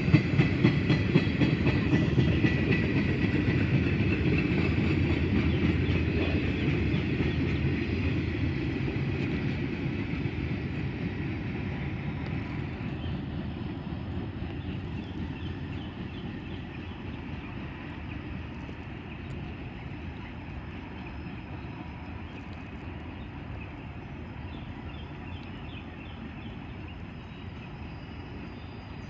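Freight train cars rolling past, their wheels clicking over rail joints at first, the rumble slowly fading as the train moves away.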